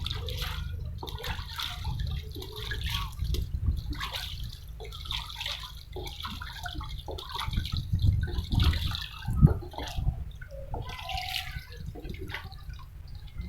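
Water splashing and dripping in short, irregular bursts.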